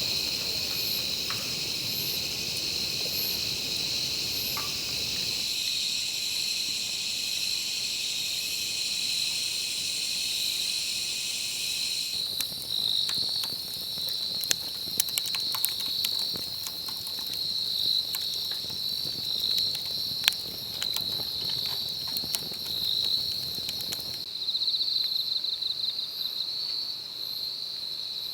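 Crickets and other night insects chirring steadily at a high pitch, with scattered sharp crackles through the middle stretch.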